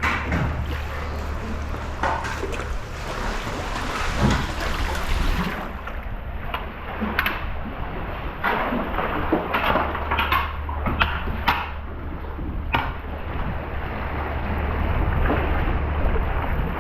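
Sea water sloshing and splashing around a kayak, with a run of sharp slaps or knocks in the middle, over a steady low rumble.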